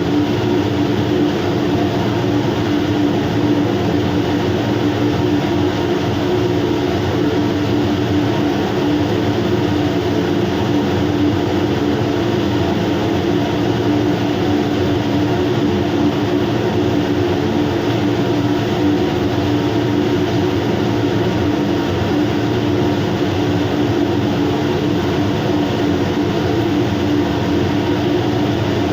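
Steady low mechanical drone of running machinery, unchanging throughout, with a constant hum in the low range.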